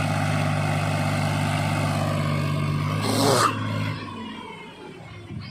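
Heavy diesel earthmoving engine running steadily under load. About three seconds in comes a short hissing burst; the engine sound then drops away and it goes quieter.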